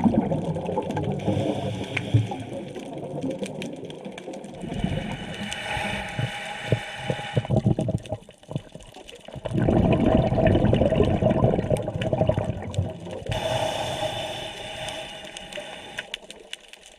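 Scuba diver breathing underwater through a regulator: a rush of exhaled bubbles at the start and again about ten seconds in, with a hissing inhalation between them and another a little before the end.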